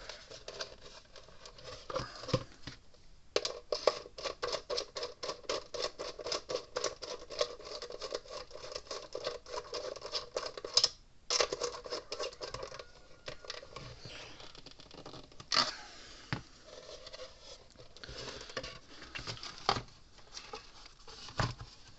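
Hand tools and small metal parts being worked at a workbench: a long run of rapid, even clicks, a short break, then scattered clicks and scrapes as a small nut and bolt are fitted.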